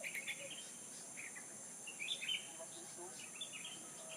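Small birds chirping and twittering in short scattered calls, a cluster of them about two seconds in, over a steady high-pitched insect drone.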